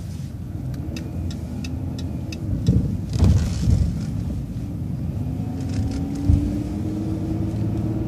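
City transit bus running through a right turn: engine rumble with a run of even ticks from the turn signal early on, a short rush of noise about three seconds in, then the engine note rising slowly as the bus pulls away.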